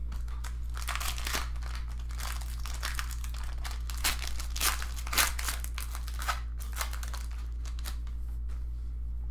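Crinkling and rustling of foil trading-card pack wrappers and cards being handled, a run of irregular crackly rustles busiest from about one to seven seconds in, over a steady low hum.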